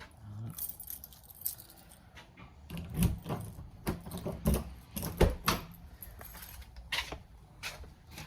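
Keys jangling and clicking as they are picked up and handled, with a scatter of short knocks, the loudest a few seconds in.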